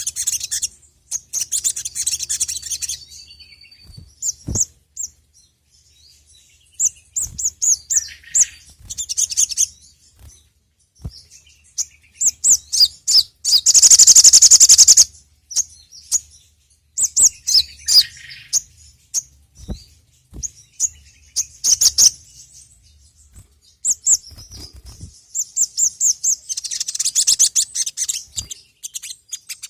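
Crimson sunbird (sogon, sogok ontong) song: runs of rapid, high chattering chirps separated by short pauses, with one loud, fast, dense trill about 14 seconds in.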